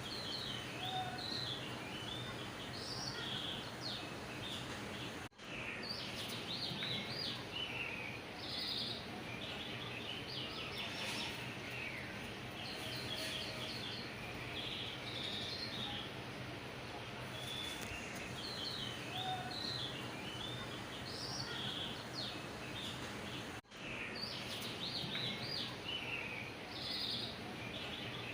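Small birds chirping and twittering over a steady background hiss, with two brief dropouts.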